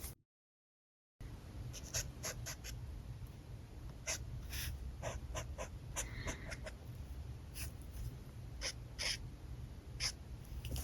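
Alcohol marker nibs stroking across paper: a run of short, separate strokes, a few a second, over a low steady hum, after a brief dead-silent gap near the start.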